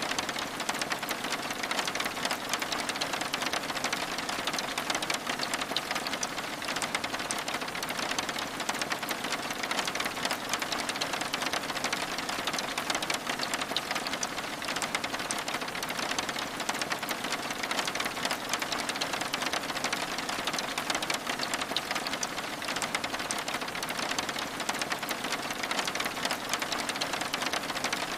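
Steady rain pattering on window glass, a dense even patter of drops, mixed with the light crackle of a wood fire in a fireplace.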